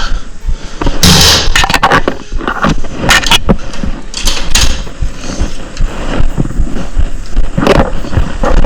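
Loud, irregular rustling, crackling and knocking close to the microphone, with a low rumble underneath.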